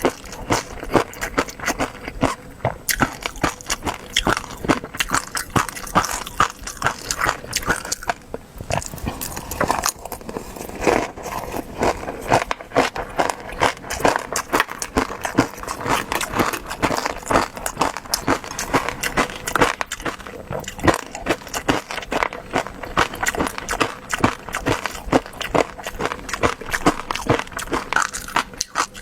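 Close-miked eating: a person chewing food with a dense, continuous run of wet clicks and crackles from the mouth.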